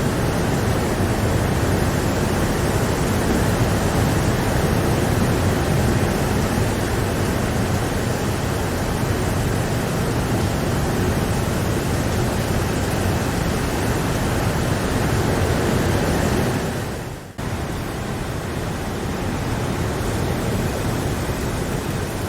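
Steady, heavy rain, a dense even hiss. About 17 seconds in it fades out briefly and cuts straight back in, like the seam of a looped recording.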